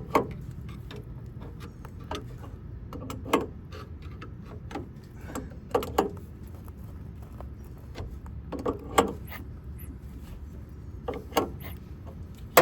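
Scattered metal clinks and knocks of hand tools on the VW bus's fan-belt pulley as the belt is tightened, one every second or two, over a steady low hum.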